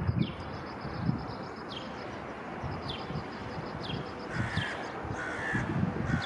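Birds calling over a low background rumble: short high notes sliding downward about once a second, with a few harsh crow caws in the second half.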